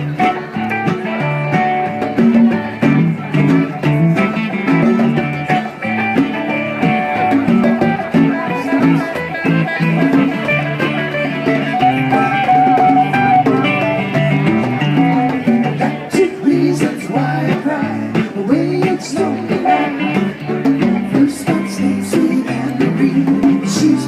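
Live acoustic band playing an instrumental break: guitar and mandolin with conga drums keeping the beat, in a bluesy style.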